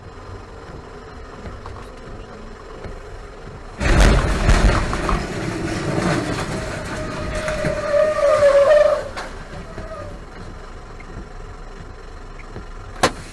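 Low road noise inside a moving car, then a sudden loud crash of a vehicle collision about four seconds in. Several seconds of loud noise follow, with a held tone that swells and then cuts off suddenly, before the quieter road noise returns. A single sharp click comes near the end.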